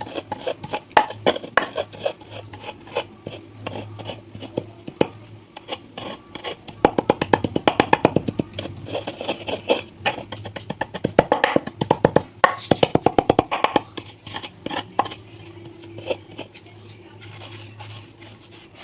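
Dry clay shapes being crushed: dense, irregular crunching and crackling clicks, thickest in clusters about seven and eleven seconds in.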